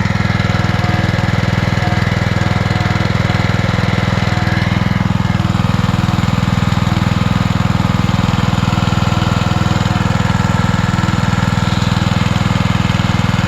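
Simpson ALH3228-S gas pressure washer's small engine running steadily and evenly just after its first start, running like a kitten with little shaking.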